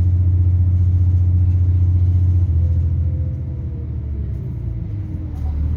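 Underfloor MTU turbo diesel engine of a Class 170 Turbostar DMU, heard inside the carriage as a steady low drone. About halfway through, the engine note drops, with a faint whine falling in pitch, and near the end it picks up again.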